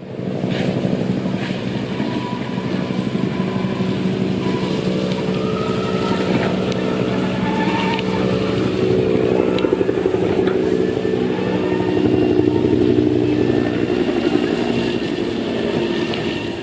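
Turret trucks, the small motorized carts of a Japanese wholesale market, running steadily close by, with scattered clicks and clatter over the engine hum.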